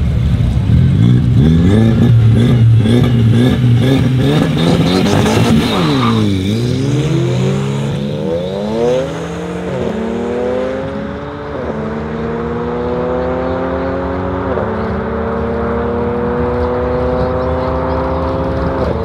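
BMW 335i coupe's turbocharged straight-six and an Audi TT held at high revs with a pulsing note at the start line, then launching about six seconds in. The engine note dips and climbs, with three more upshifts heard as sudden drops in pitch, the last near the end, a little quieter as the cars pull away.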